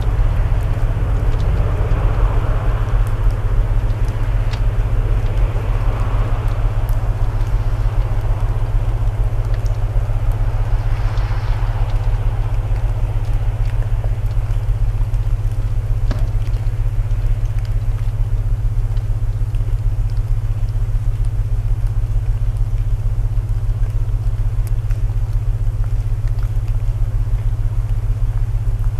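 Layered sleep soundscape: a steady low binaural-tone drone under the hiss of rain, with a few faint crackles of burning wood in a fireplace.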